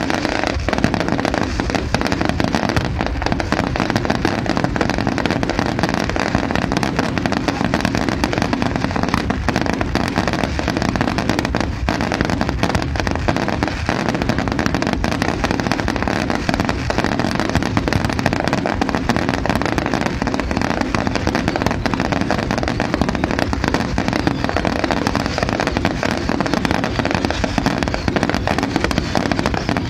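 Fireworks display: a dense, unbroken stream of bangs and crackles from many shells bursting at once, holding steady throughout.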